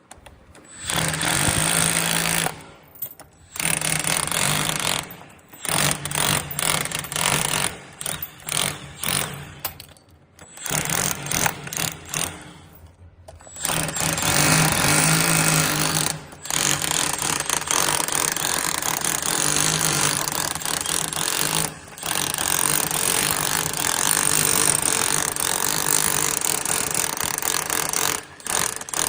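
Electric chipping hammer fitted with a 40 mm scaling chisel, running in repeated bursts of a few seconds with short pauses between them as it chips running-bond tiles off.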